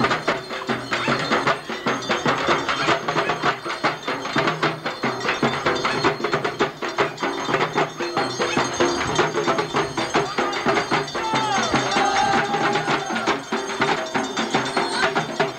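Traditional procession music: fast, dense drumming with rapid even strikes, and a short wavering melody line joining about two-thirds of the way in.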